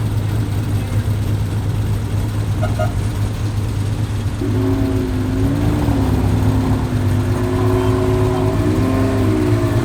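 Car engines running with a steady low rumble. From a bit under halfway in, one engine's note is held at raised revs, wavering up and down in pitch.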